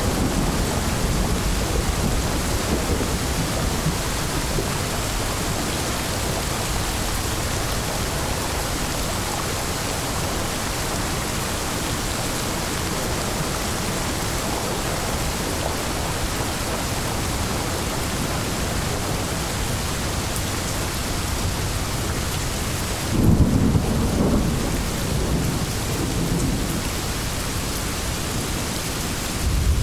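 Steady heavy rain of a rainstorm, with a low rumble of thunder swelling up about three-quarters of the way through and fading over a few seconds.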